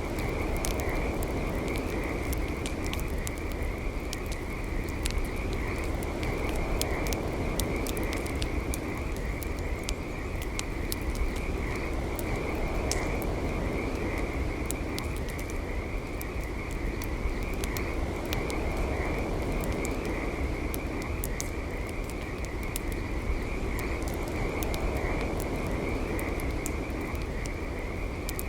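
Campfire crackling, with frequent sharp pops and snaps over a steady burning hiss. Behind it runs a continuous, high-pitched, trilling animal chorus.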